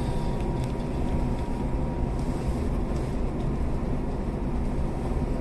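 Steady hum and rumble inside a stationary electric commuter train car as it waits at a red signal, its onboard equipment and ventilation running, with a faint high steady whine.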